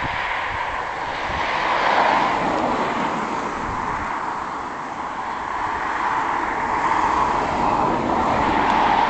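Landing aircraft's engines: a steady rushing noise with a low rumble, swelling about two seconds in and again near the end.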